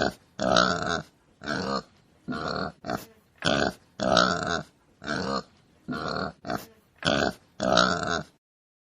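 Domestic pig grunting: about a dozen short grunts in an uneven rhythm, stopping shortly before the end.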